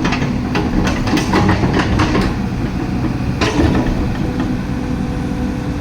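LiuGong 915E excavator's diesel engine running steadily, with a quick run of knocks and clanks over the first two seconds and one more about three and a half seconds in.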